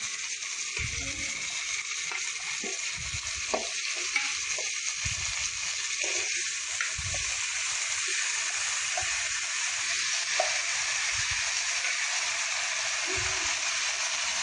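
Chicken pieces and onions sizzling steadily in hot oil in a pressure cooker, with a metal ladle stirring and knocking against the pot every second or two.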